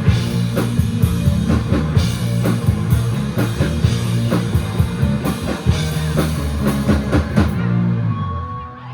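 Live rock band playing: drum kit, electric guitars and bass. About seven and a half seconds in, the drum hits stop and the last chord rings out and fades.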